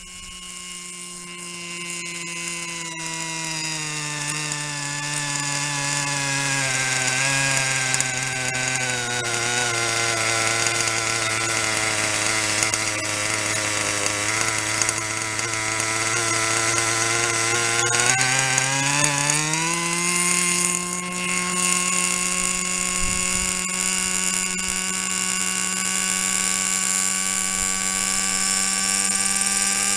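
O.S. 32FH two-stroke glow engine of a Kalt RC helicopter running while being tuned. Its speed sags gradually over several seconds, holds low, then climbs back about two-thirds of the way in and runs steady at the higher speed.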